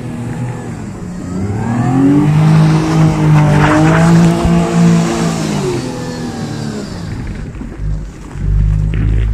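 Audi A4 B6's 3.0 V6 engine revving hard while the Quattro slides through snow. The note climbs about a second in, is held high and loud for a few seconds as the car sweeps past close by, then falls away as it eases off.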